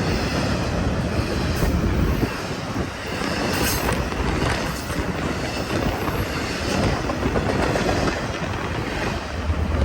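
Eastbound BNSF intermodal freight train rolling past: a steady rumble of the cars and their wheels on the rails.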